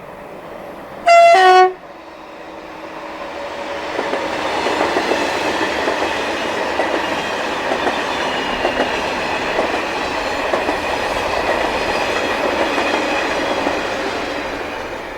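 An SNCF passenger train sounds a short two-tone horn about a second in, a high note followed by a lower one. It then rolls past at low speed, its wheel and rail noise building, holding steady for about ten seconds and fading near the end.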